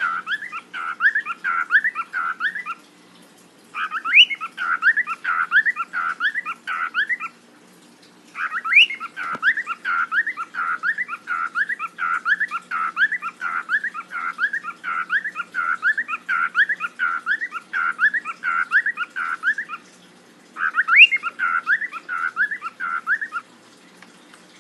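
A bird calling over and over in fast runs of short chirping notes, about three a second, in four bouts with brief pauses between them.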